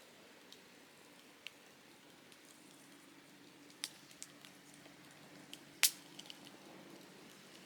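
Softwood campfire crackling, with scattered sharp pops; the loudest pop comes about six seconds in.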